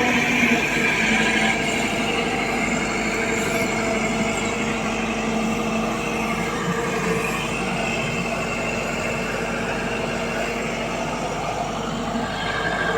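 Hyundai 150L hydraulic excavator's diesel engine running steadily under working load, with a high hydraulic whine over the engine tone.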